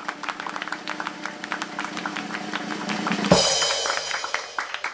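Intro music mixed with dense firework crackling. A loud burst comes about three seconds in, and its hiss fades away.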